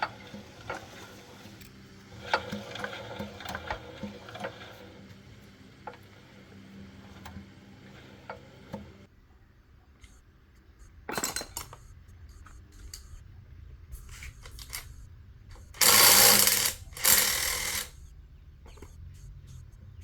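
Metal tools and parts clinking and knocking during hand repair work, with scattered sharp taps. Near the end come two loud noisy bursts of about a second each.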